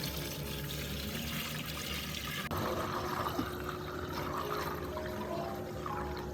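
Liquid pouring and splashing in a steady stream, over soft background music.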